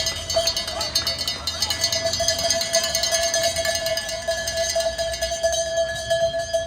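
Cowbells shaken by cycling-race spectators: a rapid, continuous clanging over a steady ringing tone.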